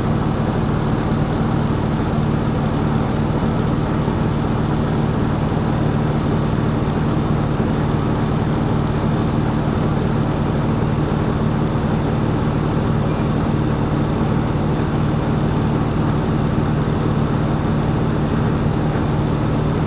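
Steady drone of a 2020 New Flyer XD60 articulated diesel bus's engine and drivetrain, heard from inside the bus, with a low hum at an even level.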